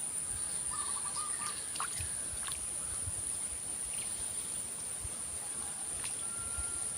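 Outdoor canal-side ambience: a steady high-pitched insect drone, a short bird call about a second in and another near the end, and a few faint clicks and knocks.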